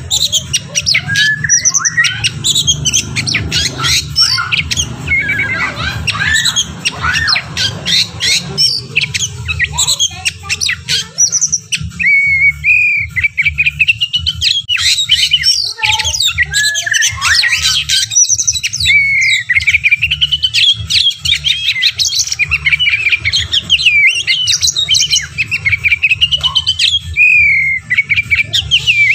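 White-rumped shama and oriental magpie-robin singing: rapid, varied song of chirps, trills and whistled phrases, very dense for the first dozen seconds, then more spaced-out whistles, over a steady low hum.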